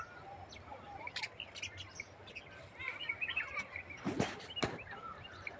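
Small birds chirping in short, scattered calls, with two sharp knocks about half a second apart a little after four seconds in.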